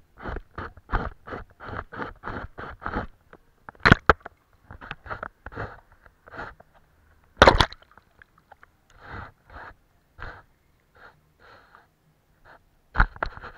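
Paintbrush strokes on paper: a quick run of short strokes about three a second, then sparser ones, with two louder, sharper strokes in the middle.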